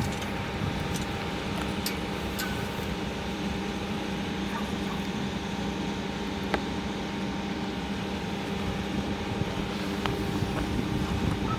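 ED4M electric train giving a steady electrical and fan hum with several steady tones, and a few faint clicks.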